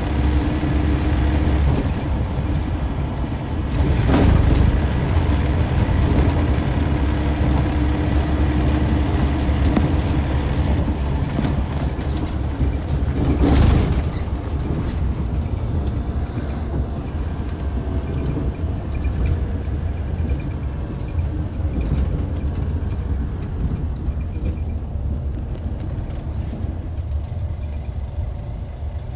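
Hyundai D6CC Powertec 380 diesel engine of a Hyundai Universe Comfort coach running with a steady low rumble. Two brief loud surges of noise come about 4 and 13 seconds in, and the sound eases off gradually toward the end.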